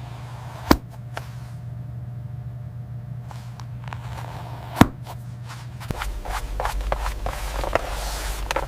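Factory ambience: a steady low hum with two sharp clicks, then about six seconds in a deeper rumble sets in with a rapid scatter of small ticks and crackles.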